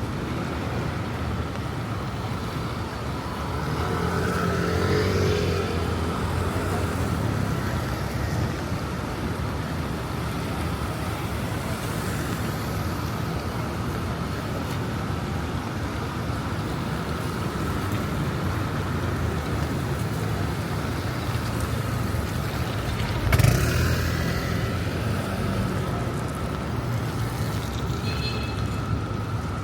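City street ambience with road traffic: cars passing, one swelling by a few seconds in, over a constant high hum. A single sharp thud about 23 seconds in is the loudest sound.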